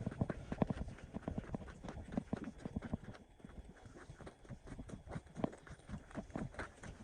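Footsteps crunching and knocking on loose stones, a quick, irregular run of steps.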